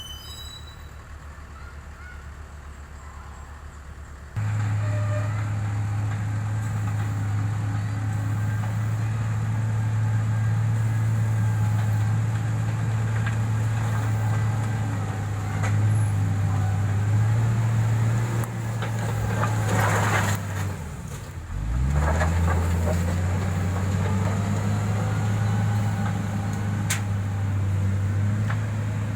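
Heavy-equipment diesel engine running steadily; it gets suddenly louder and higher about four seconds in. About two-thirds of the way through there is a short hiss, and the engine dips in pitch and climbs back up.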